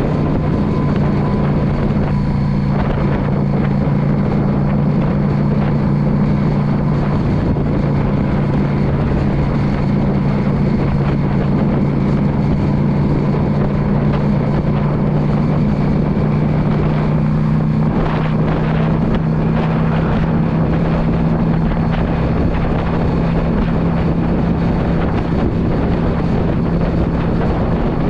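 2016 Yamaha V Star 650's air-cooled V-twin engine running at a steady speed on the road, with wind buffeting the microphone.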